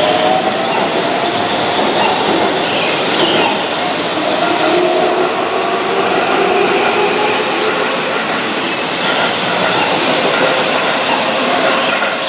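Keihan 9000-series VVVF electric train running, with steady rail noise and several whining tones that glide slowly in pitch.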